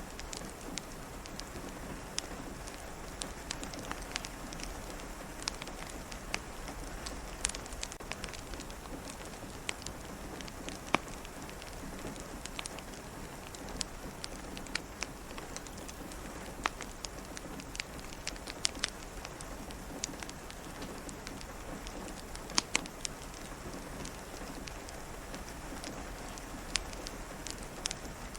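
Steady rain pattering, with a wood fire crackling in irregular sharp pops, several a second.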